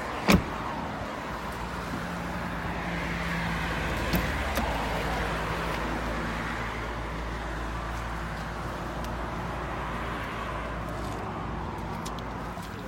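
Road traffic: a vehicle passing, its noise swelling and slowly fading over several seconds under a steady low hum, after one sharp knock just after the start.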